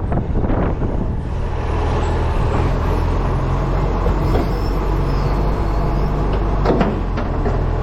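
Acco refuse truck's diesel engine running steadily, picked up by a camera strapped to the front of the truck, with wind buffeting the microphone in about the first second. A couple of sharp knocks come near the end.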